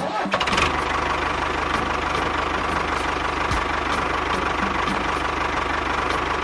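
Engine running steadily with a fast, even low chugging; it starts abruptly.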